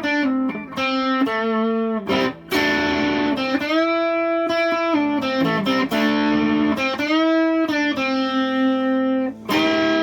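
Donner DST-100 Strat-style electric guitar played through an amp's lead channel with an OCD overdrive pedal: distorted lead phrases of held notes, several of them bent up in pitch, with short breaks between phrases.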